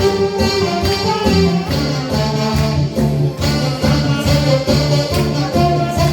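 Saxophones playing a Korean trot melody over an accompaniment with a steady, pulsing bass beat.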